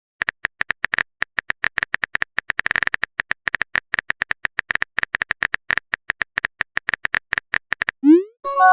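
Rapid, uneven clicks of a phone-keyboard typing sound effect, several a second. Near the end a short rising swoop and a pitched message chime.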